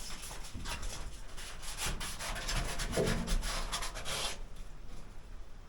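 Sandpaper rubbed back and forth in quick, irregular rasping strokes, scuffing the boat's surface ready for etch primer. The strokes stop about four seconds in.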